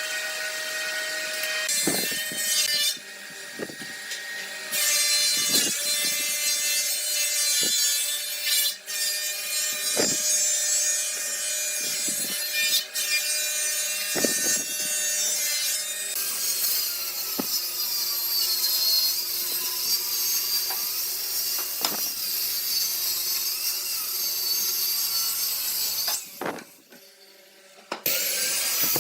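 Power tools cutting and shaping wood: a steady motor whine under a dense high hiss of the cut, with scattered knocks. The sound changes abruptly several times, and there is a quieter stretch near the end.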